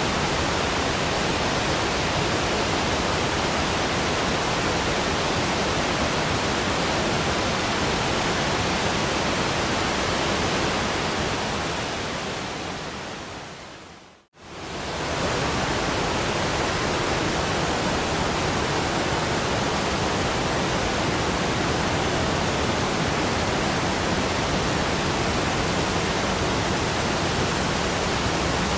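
Steady rushing of a waterfall, an even roar of falling water. About halfway through it fades down to silence over a few seconds and comes back up within about a second, as where a looped recording restarts.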